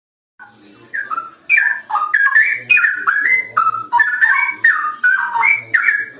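Straw-headed bulbul (cucak rowo) singing a loud, rich warble of gliding, bending whistled notes in quick phrases. The song starts about half a second in, after a brief silence.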